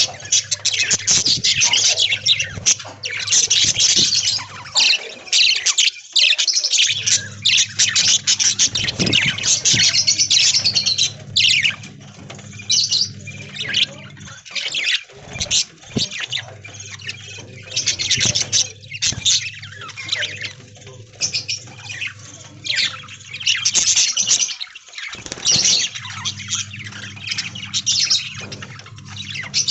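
A flock of budgerigars chirping and chattering continuously.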